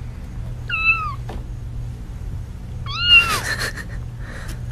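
Kitten mewing twice, short high calls that each fall in pitch, about a second in and again about three seconds in. A brief scratchy noise comes with the second mew, over a steady low hum.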